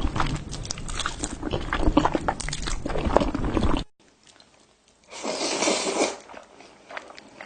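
Close-miked chewing and crunching of food, dense and clicky. After an abrupt cut about four seconds in it goes quiet, apart from a brief noisy rush about a second later and faint mouth clicks.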